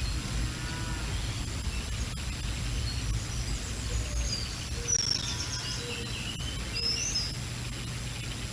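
Wind buffeting the microphone, a steady low rumble, with small birds chirping and singing over it; a cluster of short high calls comes between about four and seven seconds in.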